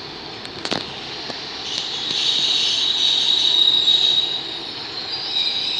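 Class 150 Sprinter diesel multiple unit running in with a high, steady wheel squeal that builds about two seconds in and eases near the end.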